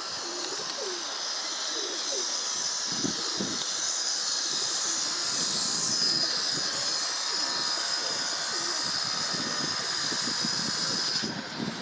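Domestic pigeons cooing, soft low calls repeating throughout, over a steady high hiss that cuts off near the end.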